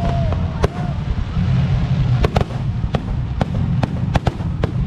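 Fireworks display: irregular sharp bangs and cracks over a steady low rumble.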